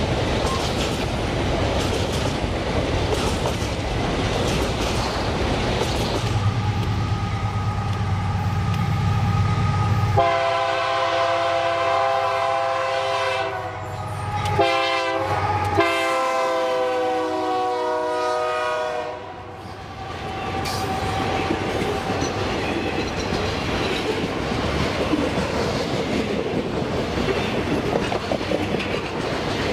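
Train running on the rails, its wheels clattering, with the locomotive horn sounding from about a third of the way in for roughly nine seconds: a long blast, then a few shorter ones, the last held.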